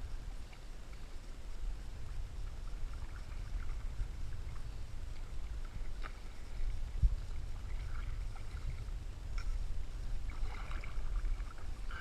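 Canoe on the move down a river: a steady low rumble throughout, a single sharp knock about seven seconds in, and a few faint high chirps.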